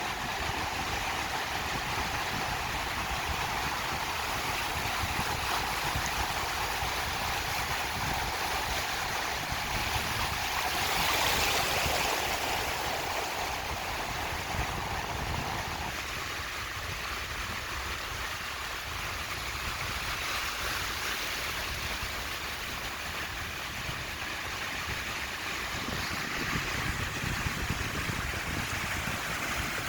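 Ocean surf washing on a beach in a steady rush, swelling louder as a wave breaks about eleven seconds in.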